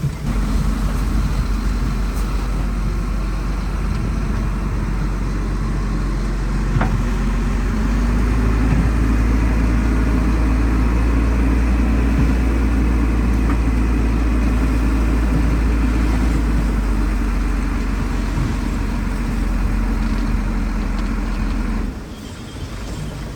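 Heavy diesel engine of an earthmoving machine running under load, a steady low sound that grows stronger about eight seconds in and drops off sharply near the end.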